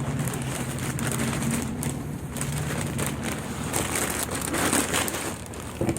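Packaging being handled and opened: crinkling and rustling with scattered clicks, over a low steady hum.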